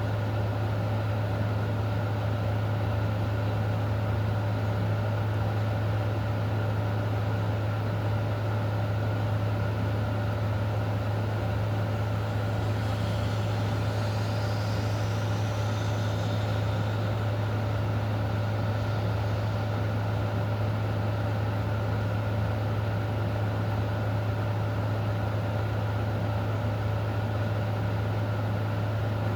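Steady low machine hum under a constant even hiss, unchanging throughout, with a faint high wavering sound around the middle.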